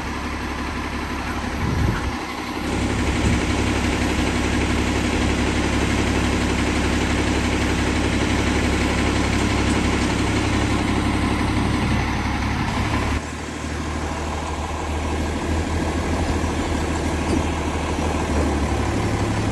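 Crane truck's engine running steadily. It speeds up and gets louder about three seconds in, holds there for about ten seconds, then drops back near 13 seconds, as it does when the truck is set up for the lift.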